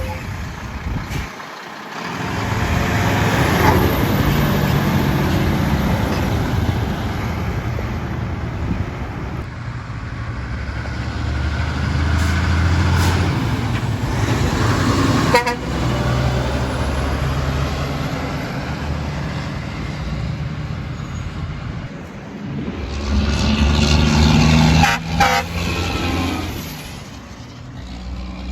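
Heavy trucks driving past with loud engine and road noise, and a truck air horn blasting near the end.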